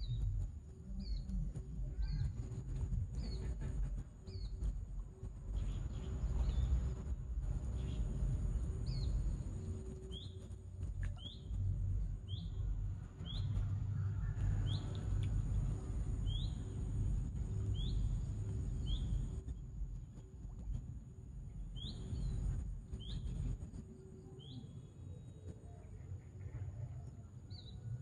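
A small bird repeating a single short, sharp chirp roughly once a second, with a few pauses, over a low, uneven rumble.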